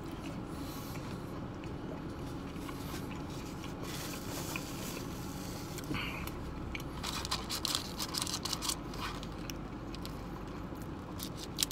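A person chewing a mouthful of burger, with scattered soft clicks and crackles that are busiest about seven to nine seconds in, over a steady low hum.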